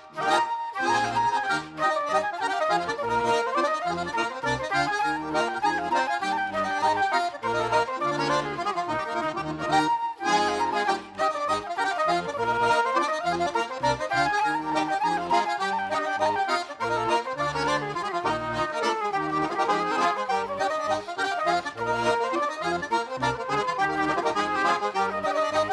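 Irish traditional music led by an accordion, playing a lively melody over a steady bass rhythm; the sound dips briefly right at the start before the tune carries on.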